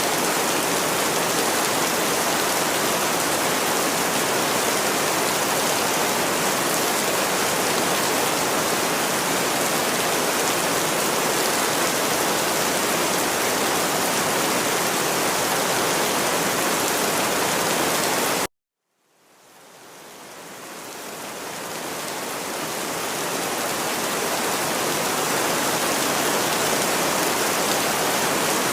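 Steady, even rain hiss. About two-thirds of the way through it cuts out suddenly for about half a second, then fades back in over several seconds, as at the joint where a looped rain recording restarts.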